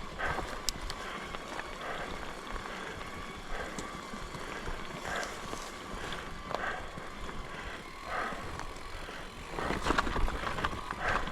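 Mountain bike being ridden along a dirt and rock forest trail: tyres rolling and crunching over the ground, with a jolt or rattle every second or so.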